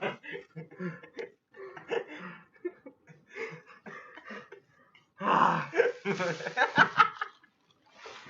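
Indistinct human voices: short, broken vocal sounds like muttering, breathing and laughter, louder and breathier about five seconds in.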